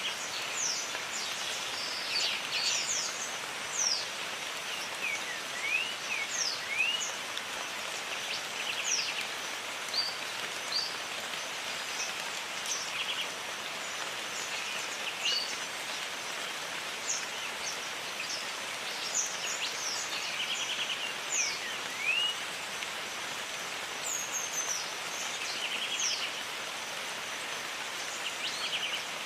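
Steady rain hiss in a jungle, with many birds calling over it: short chirps, rising and falling whistles and a few buzzy trills scattered throughout.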